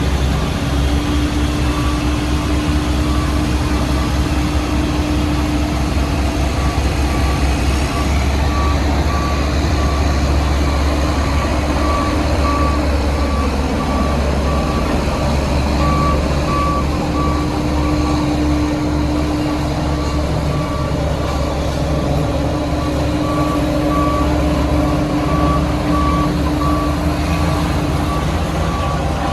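Heavy construction machinery's diesel engines running with a low rumble, while a reversing alarm beeps over and over at an even pace.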